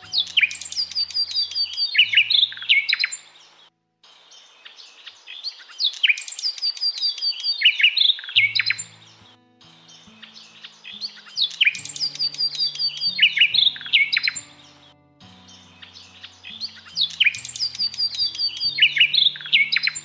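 Bird song: a phrase of quick, falling chirps, repeated the same way four times about every five seconds, over soft low music notes.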